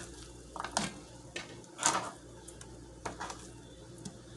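A few light knocks and clatters of kitchen things being handled, the largest about two seconds in.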